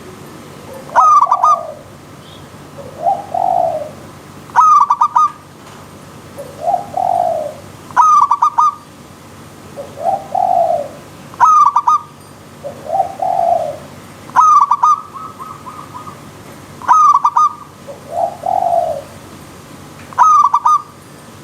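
Zebra doves (perkutut) cooing: a stuttering clipped note followed by lower rounded coos, the phrase repeating about every three and a half seconds, over the steady hiss of a running stream.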